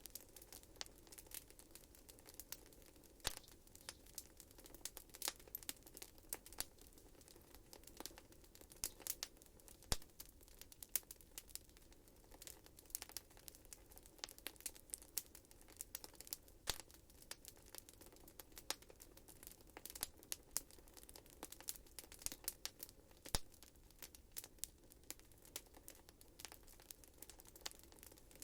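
Wood fire burning in a fireplace: irregular crackles and sharp pops, several a second, over a faint steady hiss, with a few louder snaps such as about ten seconds in and near the end.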